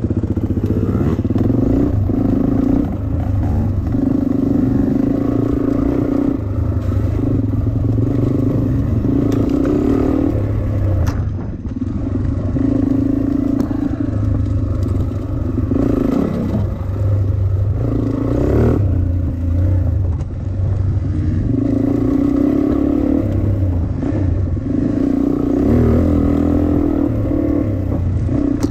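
Dirt bike engine being ridden hard, its revs rising and falling over and over, with short dips where the throttle is shut off.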